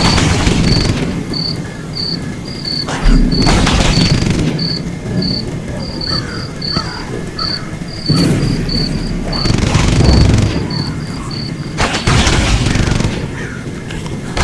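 Crickets chirping in a steady rhythm of about three chirps a second, fading out near the end. Over them come several loud rushing, rumbling surges of noise.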